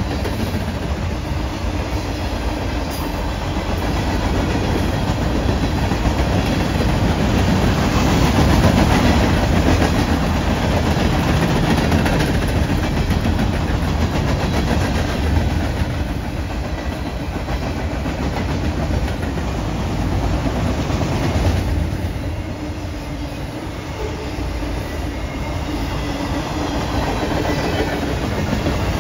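Freight train cars rolling past on the rails, a steady, continuous train noise that swells and eases, dropping off briefly about two-thirds of the way through before building again.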